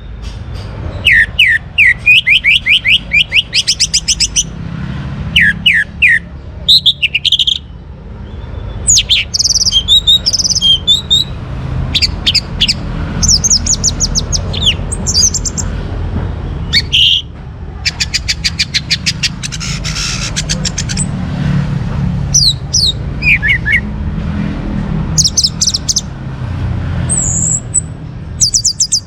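Young orange-headed thrush singing a varied song of rapid trilled note-trains and short whistled phrases. The phrases come in quick bursts separated by brief pauses, over a steady low background rumble.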